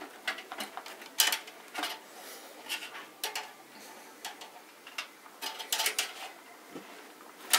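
Irregular small clicks and light clatter of parts being handled inside a computer case, hard plastic and metal tapping together.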